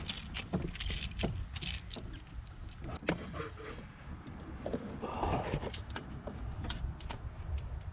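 Scattered, irregular metallic clicks and clinks of a ratchet and a 9/16 spark plug socket on a swivel and extensions, worked deep at the back of the engine to loosen and lift out a spark plug.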